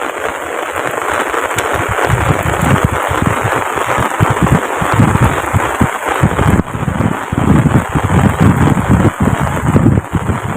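Heavy rain pouring steadily, with irregular low thumps and crackle close to the microphone.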